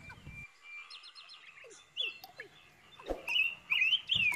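Small birds chirping and twittering: short quick notes and sweeping whistled calls, becoming louder and busier in the second half. There is a single sharp click about three seconds in.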